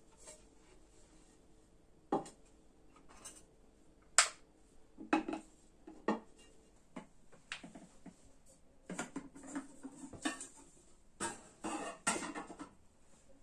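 Household handling noises: a run of irregular knocks and clinks, like dishes and utensils being moved, sparse at first and busier in the second half.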